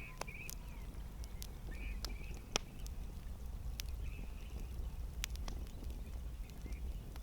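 Wood campfire crackling: scattered sharp pops and snaps at an irregular pace, one louder pop about two and a half seconds in, over a steady low rumble of the burning fire.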